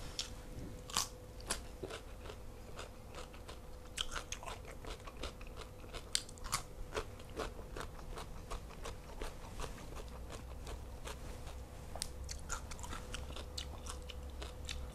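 Close-miked crisp crunching of a raw vegetable being bitten and chewed, an irregular run of crunches.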